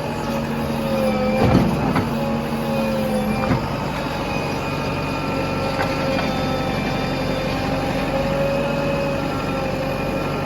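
JCB backhoe loader's diesel engine running steadily with a wavering whine over it, and a couple of sharp clanks in the first few seconds.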